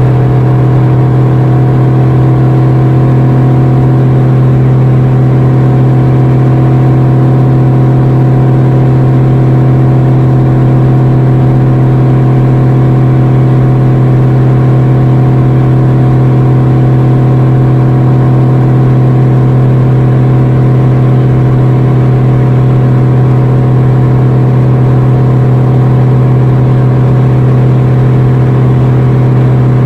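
Factory Five Type 65 coupe's V8 engine holding a steady high drone as the car runs flat out at about 155 mph. The pitch stays constant throughout, with no shifts or lifts.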